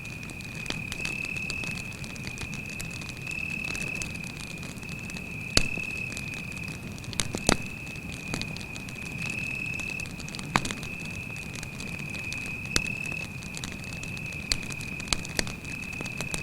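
Campfire crackling, with irregular sharp pops and a low steady flutter of flame, over one cricket's continuous high, even trill. The loudest pops come about five and a half and seven and a half seconds in.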